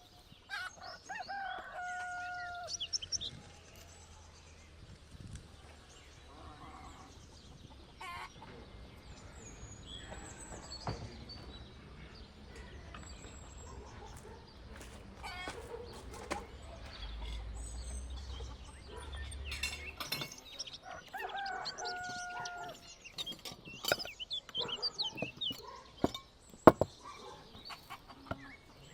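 A rooster crowing twice, once about a second in and again past the middle, amid small birds chirping. There are a few sharp clicks near the end, one of them the loudest sound.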